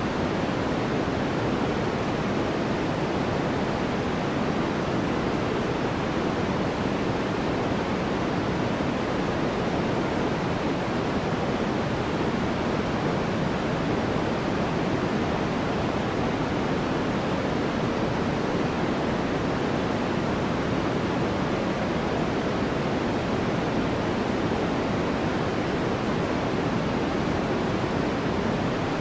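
Steady generated sleep noise: an even, unchanging rushing hiss with no events in it. It is darker and deeper than true white noise, closer to pink noise.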